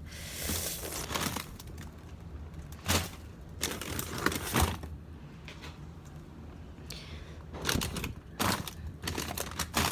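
Frozen food packages in plastic bags being handled in a freezer: plastic crinkling, with scattered knocks of hard frozen items against each other.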